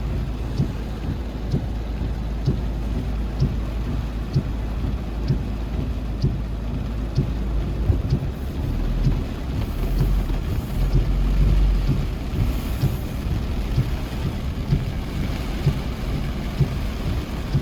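Steady rain falling, with a low rumble underneath that swells about nine to twelve seconds in.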